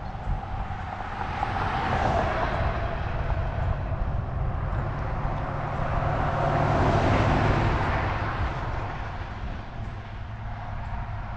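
Road and wind noise while riding a bicycle along a road, a steady rushing with low rumble that swells louder twice, about two seconds in and again around seven seconds.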